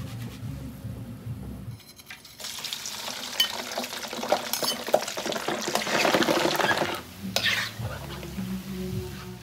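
Dried mussels deep-frying in a wok of hot oil. A loud sizzle with crackling and pops begins about two seconds in, peaks a little past halfway, then drops away near the end.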